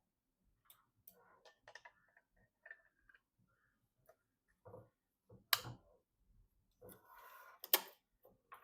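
Small scattered clicks and taps of hard parts being handled during PC assembly. There are two sharper knocks, about five and a half seconds in and again near eight seconds, with a short rustle between them.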